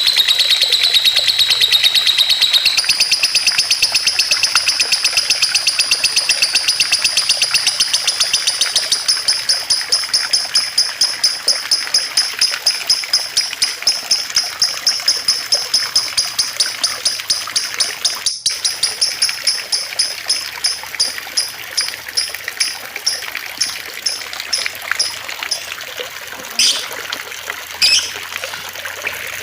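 Songbird singing a long, fast trill of high, piercing notes that gradually slows into separate chirps, with two short sweeping calls near the end. Water trickles steadily beneath it.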